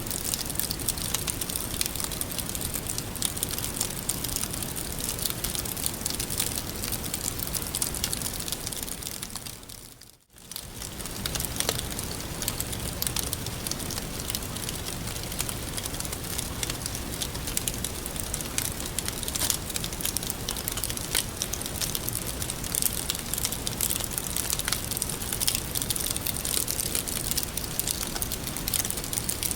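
Wood fire burning with a steady hiss and many small crackles and pops. About a third of the way through, the sound dips almost to nothing for a moment and then swells back.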